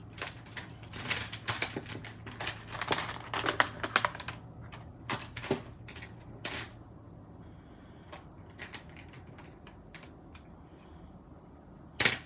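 Pen or marker tip scratching across cardstock in quick short strokes while colouring in, busy at first and then sparser and fainter, followed near the end by one sharp click.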